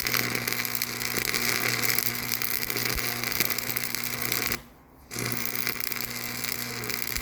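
A machine running steadily with a constant hum, briefly cutting out for about half a second a little past the middle.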